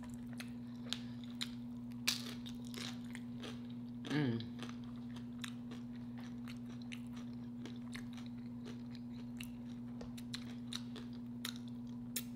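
Close-up chewing and crunching of chili cheese nachos on tortilla chips, with many sharp crunches and wet mouth clicks. A brief vocal hum comes about four seconds in, over a steady low electrical hum.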